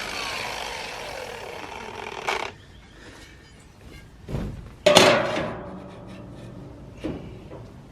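A power tool spins down over the first two seconds or so, its pitch falling. Then come a few knocks and, about five seconds in, one loud ringing metal clang.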